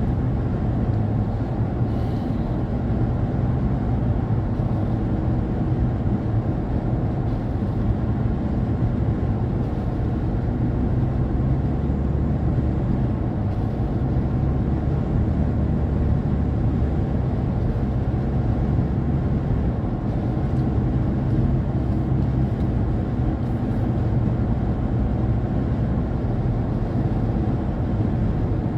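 Steady low rumble of a car driving at an even speed, with road and engine noise.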